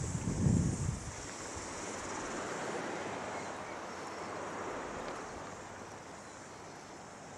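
Wind buffeting the microphone over a steady rush of water, with a heavy low gust about half a second in; the noise slowly eases over the last couple of seconds.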